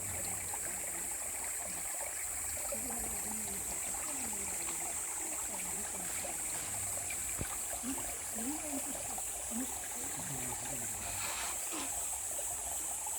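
Mountain stream water flowing and trickling steadily over rocks.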